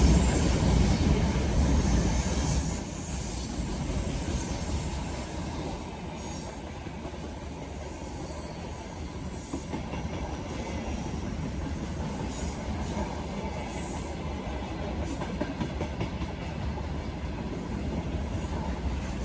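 Railway wagons of a passing train rolling on the rails: a steady rumble with faint clicks of the wheels. It is loudest at first and eases off after about three seconds, then holds steady.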